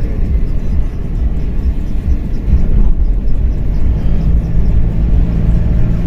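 A vehicle's engine running with a heavy low rumble; a steadier engine hum comes in about four seconds in.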